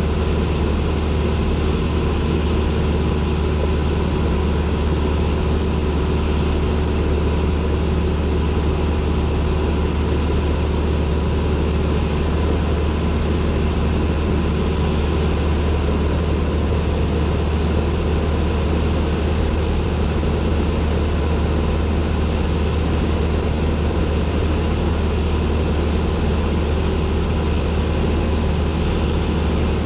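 Cessna 172N's four-cylinder Lycoming piston engine and propeller running steadily in flight, a constant low drone heard from the cockpit.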